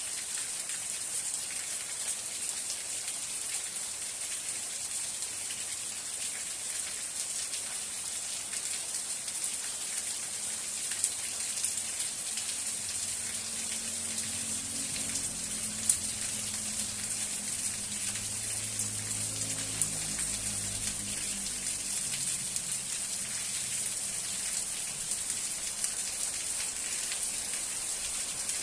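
Steady rain falling: a dense hiss with scattered louder drops ticking. Through the middle a low rumble swells and then fades away.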